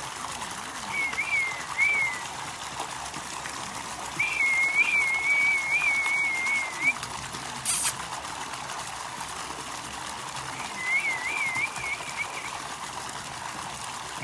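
Parrot whistling in warbling, wavering phrases: a short pair about a second in, a longer run from about four to seven seconds, and another near the end, over a steady hiss.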